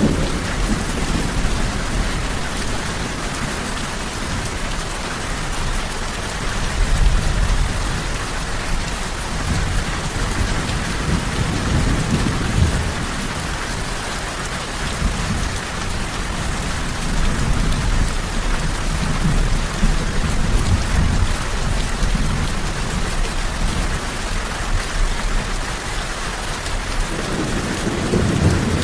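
Steady rain falling, with low rolls of thunder swelling and fading several times, strongest about halfway through and again near the end.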